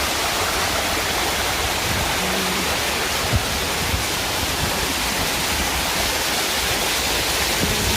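Steady rush of a river waterfall pouring water.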